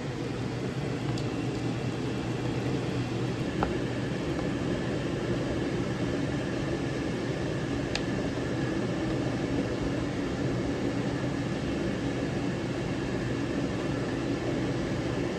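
A steady whirring hum with a few faint, sharp clinks scattered through it.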